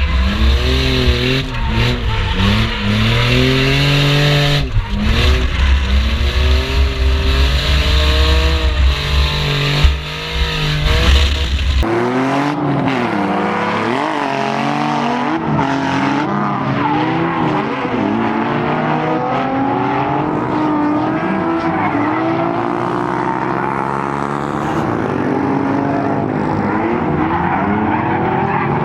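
Infiniti G35's V6 engine revving up and down again and again while drifting, with tyre squeal over it. A heavy low rumble drops away abruptly about twelve seconds in, while the revving carries on.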